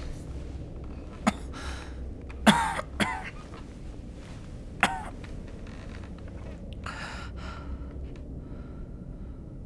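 A person coughing: four harsh coughs over about four seconds, the second the loudest, with heavy breaths between and another long breath near the end.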